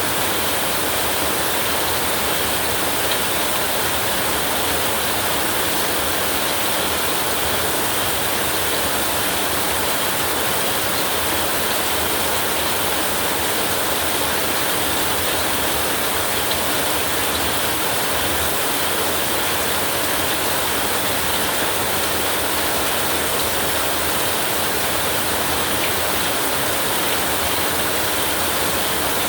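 Heavy rain falling steadily: a dense, even hiss with no breaks or thunderclaps.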